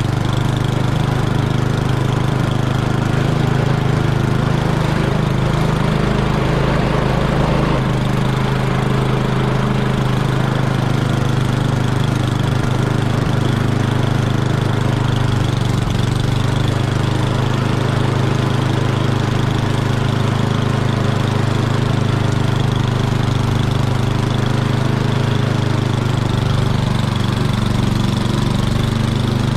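Snowblower's small gas engine running steadily.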